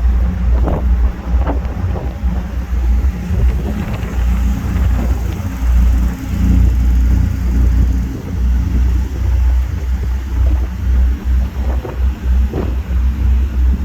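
Passenger ferry's engines running with a steady low rumble, with wind buffeting the microphone on the open upper deck.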